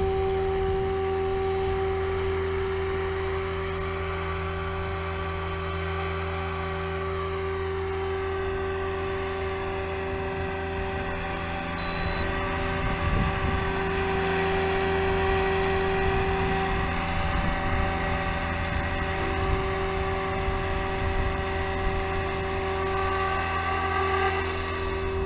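SAB Goblin 500 electric RC helicopter flying, its motor and rotor blades giving a steady whine that rises and falls slightly in pitch.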